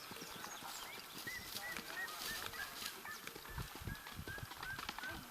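Birds calling: a string of short, arched calls repeating several times a second, with a few faint low thuds underneath.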